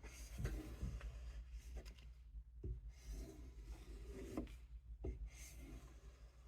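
Case USMC fixed-blade knife being stropped: soft rubbing strokes of the blade on a strop, with a few light knocks in between. The stropping is the final step to refine the edge after the 600-grit stone.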